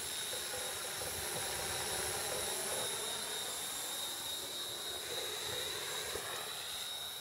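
Electric radio-controlled model helicopter flying, its motor and rotor giving a steady high-pitched whine over a rushing hiss.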